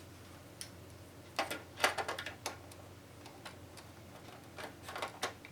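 Scattered light clicks and taps of hand tools and small parts being worked at a boombox's cabinet, a cluster about two seconds in and more near the end, over a faint steady low hum.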